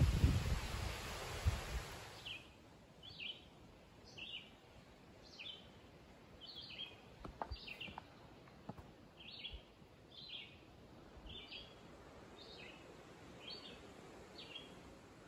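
A songbird repeating a short, falling call about once a second, a dozen times over. Before it, a couple of seconds of rushing wind noise and rumble on the microphone, which cuts off abruptly.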